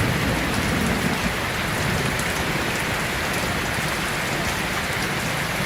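Heavy rain pouring steadily, with a low rumble of thunder dying away over the first second or so.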